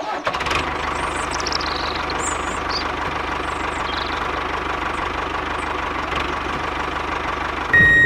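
Engine idling steadily with a rapid low knocking beat, stepping up louder shortly before the end.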